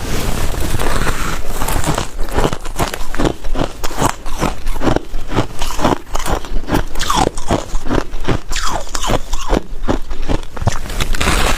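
Hard white ice cubes being bitten and crunched between the teeth: a loud, continuous run of sharp crunches, a few every second.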